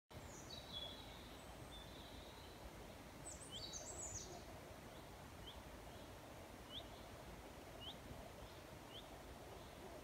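Faint songbirds singing over a low steady hiss of woodland ambience: falling whistled notes at first, a quick busier phrase around four seconds in, then a short rising chirp repeated about once a second.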